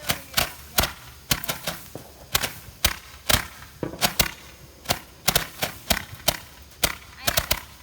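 Fireworks going off in a rapid, irregular series of sharp bangs, two or three a second, bunching into quicker clusters near the end.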